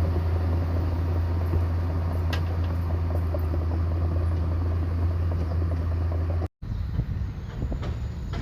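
Heavy diesel engine of earthmoving machinery running steadily with a deep, even drone. About six and a half seconds in, it cuts off abruptly and a rougher, more uneven engine sound follows.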